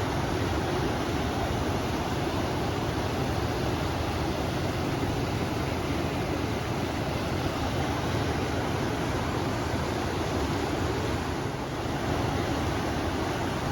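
River water rushing steadily with wind blowing over it, a continuous even noise with a deep low end.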